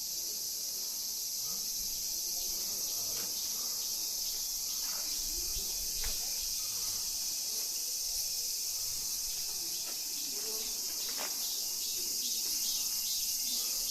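Steady, high-pitched drone of a summer insect chorus, with a few faint knocks scattered through it.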